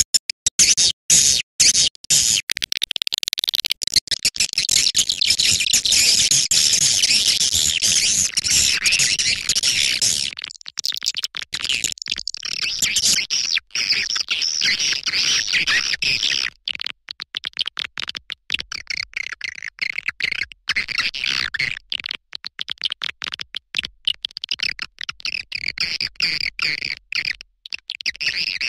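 Recorded swiftlet lure call: rapid, high-pitched swiftlet twittering played to draw swiftlets into a nesting house, cut up by many short dropouts. It is dense and full for about the first ten seconds, then thinner and higher-pitched.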